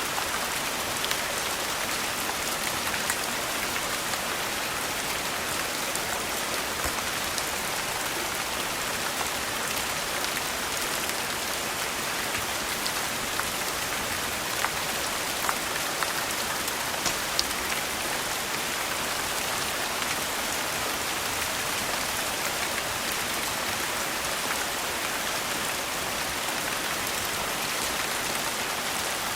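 Steady rain, with occasional light crackles from a fireplace scattered through it.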